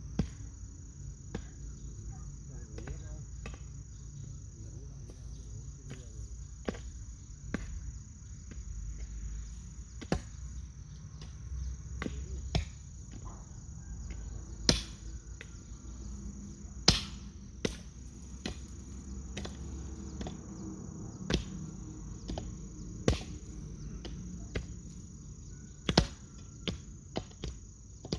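Steady high-pitched drone of crickets, with irregular sharp knocks or clicks every second or two; the loudest knocks come about two-thirds of the way through and near the end.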